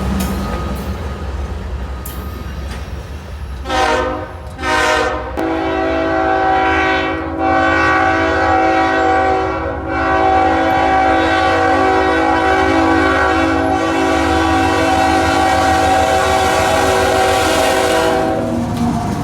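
Diesel locomotive rumbling on the rails while its horn sounds a chord of several notes: two short blasts about four seconds in, then one long blast held for roughly thirteen seconds.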